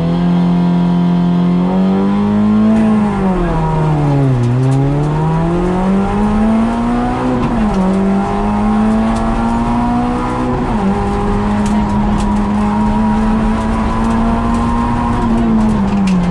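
Peugeot 106 rally car's four-cylinder engine, heard from inside the cockpit, pulling hard at high revs. The pitch climbs, falls away deeply about four seconds in as the driver lifts off, climbs again, and drops sharply twice at upshifts, near eight and eleven seconds, before it is held high. Road and tyre noise run underneath.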